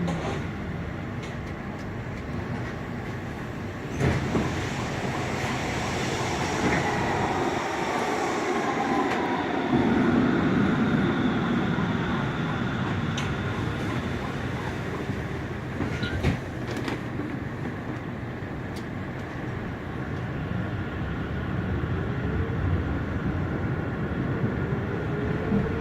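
Frankfurt U-Bahn light-rail train running between stations, heard from inside the car: wheels rumbling on the rails while the traction motors whine in slow rising and falling glides. There is a sharp knock about four seconds in and another around sixteen seconds in.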